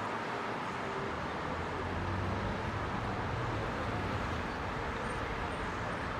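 Heavy rush-hour city traffic: a steady wash of car engines and tyre noise, with a deeper engine hum from a heavier vehicle swelling about a second in and fading after a few seconds. A faint, evenly repeating high chirp starts near the end.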